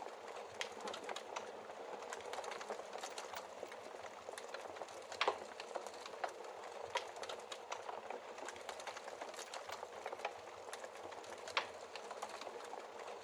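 Wood fire crackling in a fireplace: a steady soft hiss dotted with many small snaps, with a louder pop about five seconds in and another near the end.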